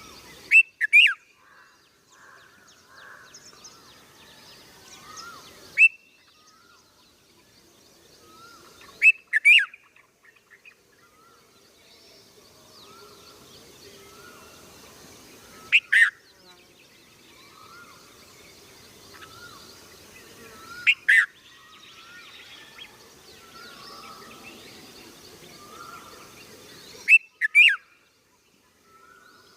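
Birds chirping: sharp, very short calls, often in quick pairs, every few seconds, over a steady softer twittering of other birds.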